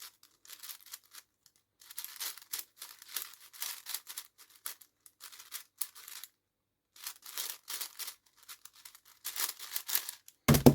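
A brand-new plastic speedcube being turned quickly in a solve: dense runs of short scratchy clicks with a brief pause after about six seconds, ending in one loud thump near the end as the solve finishes.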